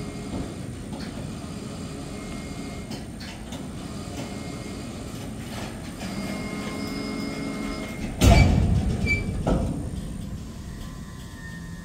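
Freight train's boxcars and tank cars creeping slowly past, wheels rumbling with faint squeals. A loud bang comes about eight seconds in and a smaller one a second later, typical of the couplers' slack running in or out.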